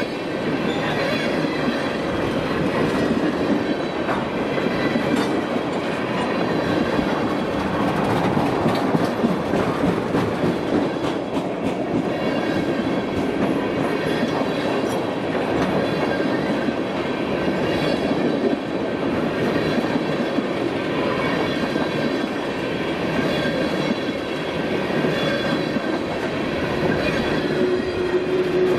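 Freight train of tank cars rolling past at close range: a steady rumble and rattle of steel wheels on rail, with clicking over the rail joints and a faint high wheel squeal.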